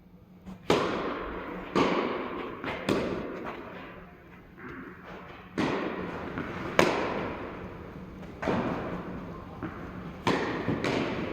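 Tennis rally: strings striking the ball and the ball bouncing on the court, about eight sharp pops spaced roughly a second apart, each trailing off in an echo.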